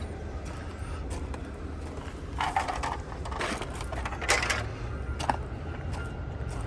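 Four or five short crunching or clinking noises, the loudest about four seconds in, over a steady low rumble.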